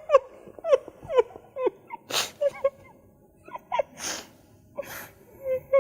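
A man sobbing in a string of short, falling wails, broken by three loud, sharp sniffling gasps.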